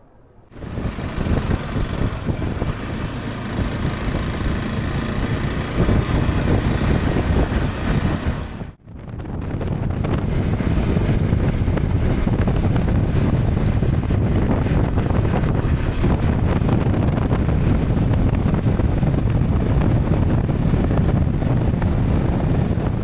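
Wind buffeting the microphone over a motorcycle riding along the road, a dense steady rush in two stretches split by a sudden cut about nine seconds in.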